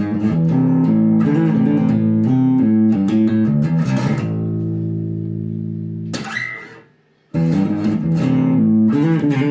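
Epiphone Grabber electric bass with its pickup split to single coil, played through an Aguilar Tone Hammer preamp. It plays a riff of changing notes, then one held note that rings and fades out to silence about seven seconds in. The riff then starts over, after what the player treats as a slip.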